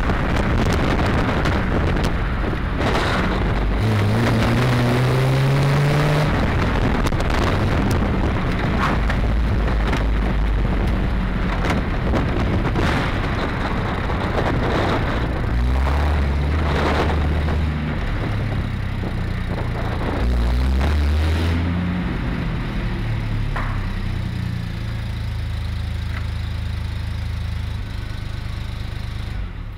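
Triumph TR6 2.5-litre straight-six engine under way on the road, with wind and road noise. The engine note climbs under acceleration a few seconds in, then drops back and changes pitch several times as the car goes through the gears.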